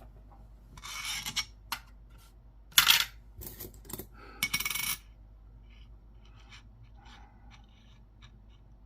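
Coins, Jefferson nickels, being handled and shifted under the scope: three short scraping, clinking bursts with small clicks between them, the loudest about three seconds in.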